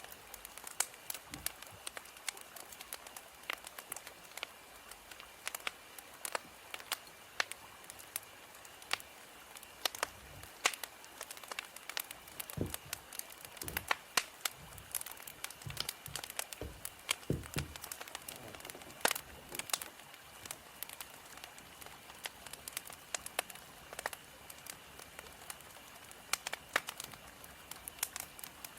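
Wood fire crackling: frequent irregular sharp snaps and pops over a soft steady hiss, with a few deeper pops around the middle.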